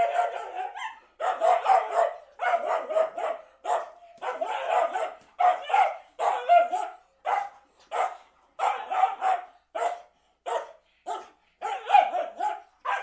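Dog barking over and over in sharp barks: quick runs of barks at first, thinning to single barks about half a second apart later on.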